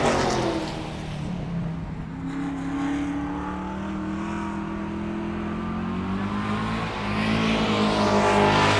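Car engine sound effect: loud at the start and dying down within the first second, running lower and steady through the middle with a slight rise in pitch around two to three seconds in, then swelling loud again near the end.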